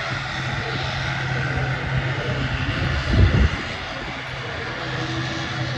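Airliner's engines running with a steady low drone over a broad rushing noise, with a brief low thump about three seconds in.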